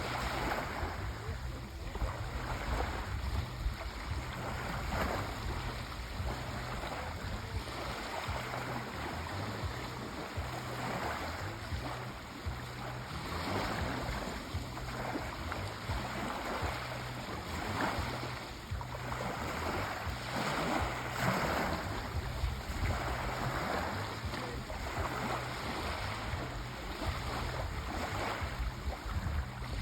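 Sea waves washing onto a shore: a continuous surf noise that swells and eases every few seconds.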